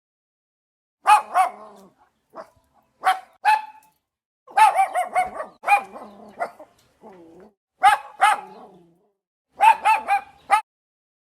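A dog barking: short, sharp barks in clusters of one to four, about a dozen in all, with silence between them.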